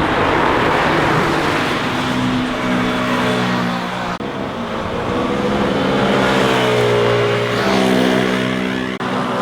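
Motorcycles riding past at speed with engines revving hard, the engine pitch falling and rising as they pass. The sound breaks off abruptly twice where clips are cut together.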